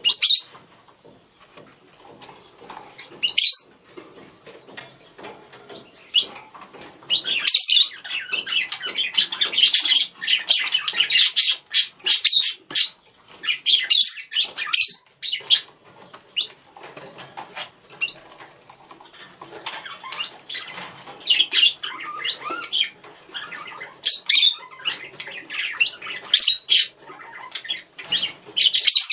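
Budgerigars calling to one another: quick high chirps, warbling chatter and sharper squawks in irregular bursts. The calls are sparse for the first few seconds and busiest from about 7 to 15 seconds in.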